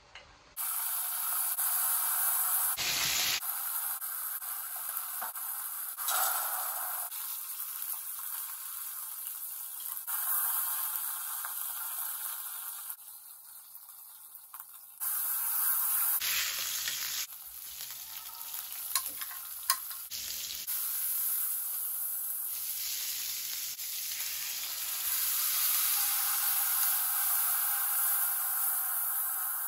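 Chicken breast and sliced onions frying in oil in a metal karahi on a gas stove: a sizzling hiss with stirring, its level jumping abruptly several times. Two sharp clicks come a little past halfway.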